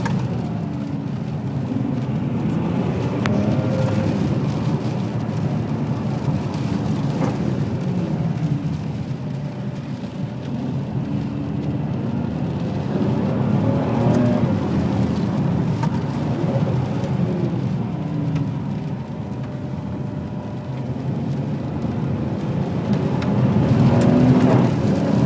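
Ferrari 599 GTB Fiorano's Enzo-derived 6.0-litre V12 running on the move, its pitch rising and falling with the revs several times and loudest about a second before the end, over a steady hiss of tyres on wet road.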